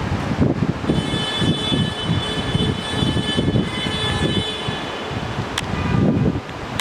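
Strong wind buffeting the microphone in irregular gusts, with a steady high-pitched whine of several tones coming in about a second in and a single sharp click near the end.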